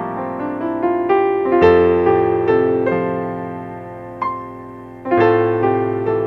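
Slow, gentle piano music: sustained chords with single notes picked out above them, a fresh chord struck about a second and a half in and again near five seconds.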